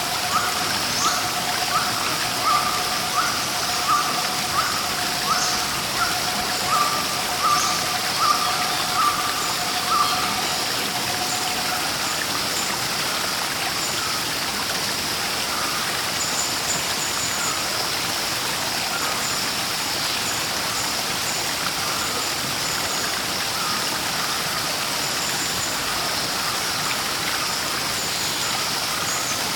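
Steady rushing of a waterfall. Over it, a bird repeats a short call about one and a half times a second for the first ten seconds, and faint high chirps come and go later.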